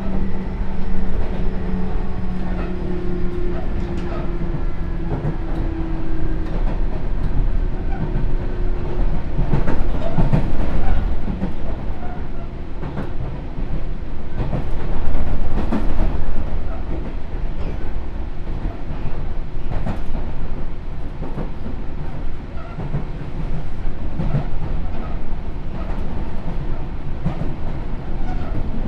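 Running sound of a Sotetsu New 7000 series electric train with a Hitachi GTO inverter. The inverter's whine falls slowly in pitch and fades out about six seconds in. The wheels run on with a steady rumble and a series of clicks over rail joints in the middle.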